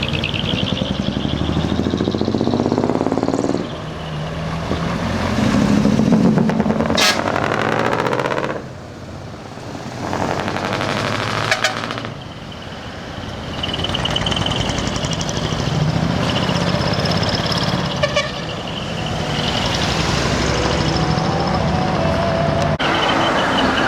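Heavy decorated trucks (dekotora) pulling away one after another: diesel engines revving up, a short sharp air-brake hiss about seven seconds in, and brief horn notes later on.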